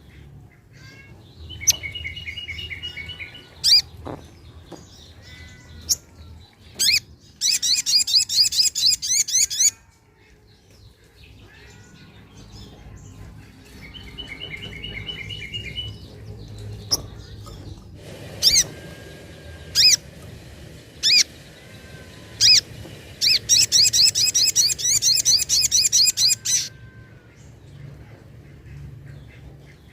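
Sogok ontong (sogon) sunbird song: short trills, sharp single high notes and long runs of rapid, high chattering, the same sequence coming round again about halfway through.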